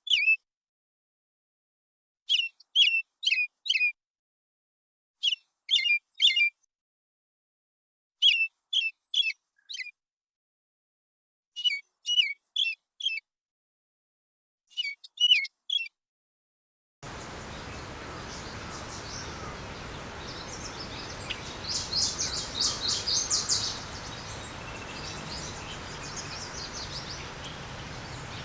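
Bird chirping: short phrases of three or four quick chirps about every three seconds over dead silence. About 17 seconds in, a different recording takes over, with a steady background hiss and scattered bird calls, including a fast high trill for a second or two.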